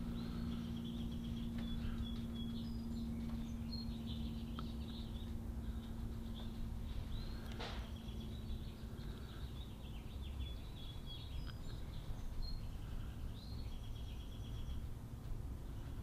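Faint high bird chirps, short and repeated, over a low steady hum, with one short soft swish about eight seconds in.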